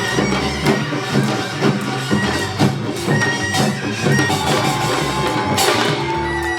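Korean traditional pungmul-style music: a reedy wind instrument plays over drums and percussion beating a steady rhythm, with a louder strike near the end.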